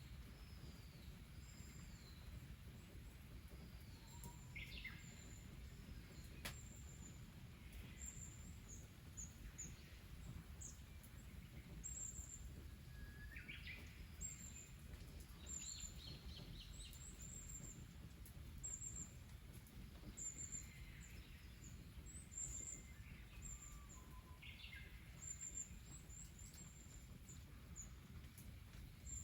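Birds calling and singing faintly: a run of short, high chirps throughout, with a few louder sliding calls now and then, over a low steady background rumble.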